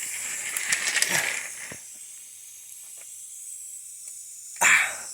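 An 1890 Garlick live steam model locomotive hissing steam as it runs, the hiss heavier for the first second or so, then steadier, with a short loud burst of steam near the end.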